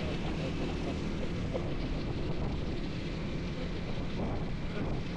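Motorcycle riding along at a steady pace: the engine's hum under steady wind and road noise on the rider's microphone.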